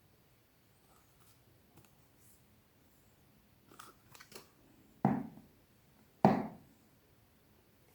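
Soap bars and their packaging being handled: a few light crisp ticks, then two sharp knocks about a second apart, each dying away quickly.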